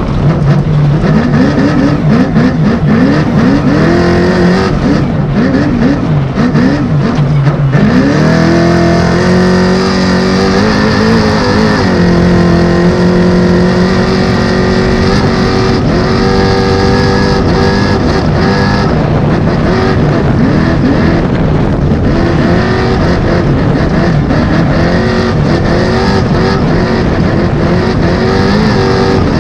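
900-plus-horsepower trophy truck engine at race pace in the desert. Over the first several seconds the revs rise and fall quickly as the throttle is worked. It then climbs and holds a steady high note, flat out for about ten seconds, before rising and falling again near the end.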